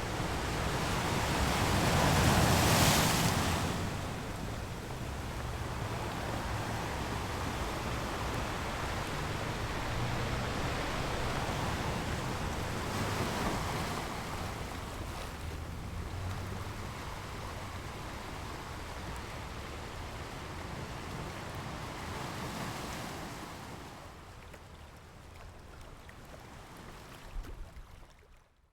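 Surf breaking and washing up on a sandy beach, a steady rush of water that swells loudest about two to three seconds in, with smaller surges later. It fades out near the end.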